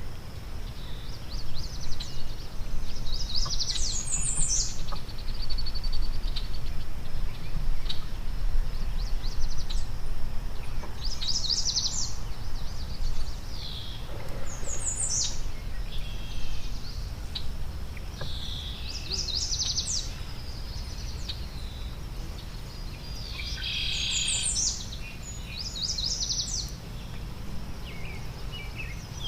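A songbird repeating a short, rapid, high-pitched song phrase every few seconds, over a steady low background rumble.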